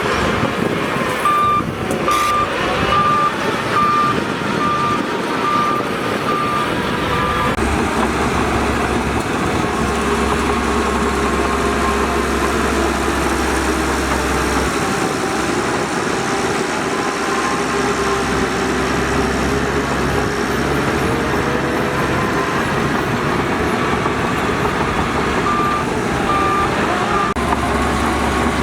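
Heavy diesel earthmoving machinery running steadily, with a reversing alarm beeping about twice a second for the first several seconds and again for a few beeps near the end.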